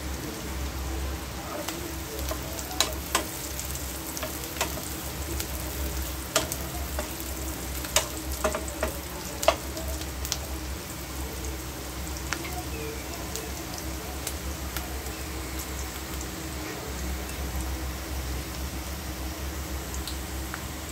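Food sizzling as it fries in a pan, stirred with a spatula that clinks against the pan several times, mostly in the first half.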